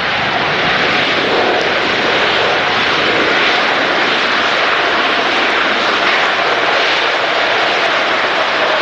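Jet airliner engines roaring loudly and steadily as a large passenger plane comes in to land.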